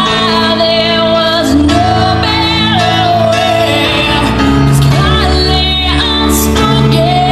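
Pop song: a woman singing long, wavering held notes over an instrumental backing, with a heavier bass line entering about four seconds in.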